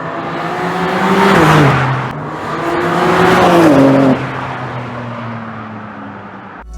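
BMW M2 CS's twin-turbocharged 3.0-litre inline six under hard acceleration, swelling loud twice. Each time its pitch drops sharply, and the sound falls away abruptly about four seconds in.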